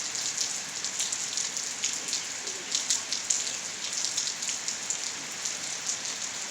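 Steady rainfall, with a continuous hiss and many close drops splattering sharply on a hard surface.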